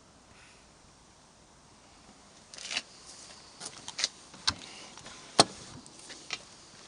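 Irregular light clicks and knocks from small objects being handled, starting about two and a half seconds in, with one sharper knock a little past halfway.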